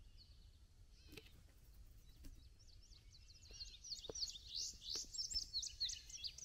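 Birds chirping and singing: a quick run of short, high chirps, sparse at first, that grows denser and louder from about halfway through, with a few faint clicks.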